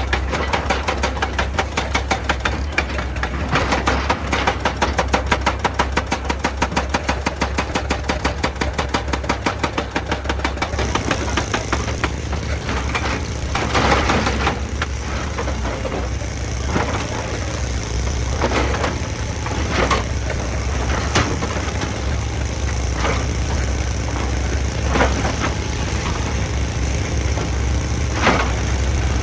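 Excavator's diesel engine running, with a rapid, even pounding for about the first eleven seconds. After that the engine runs more steadily, with scattered knocks and clunks of rock.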